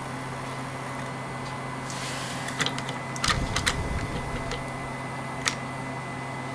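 Hornby model locomotive's small electric motor whirring steadily on a rolling road. In the middle a quick cluster of sharp clicks and a brief rattle, with one more click near the end.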